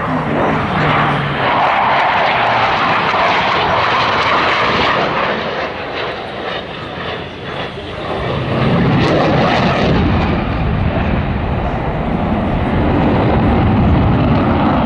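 Loud jet aircraft engine noise from a display flight, a continuous rushing sound. It dips briefly, then swells again with a deeper rumble about eight seconds in as the aircraft comes closer.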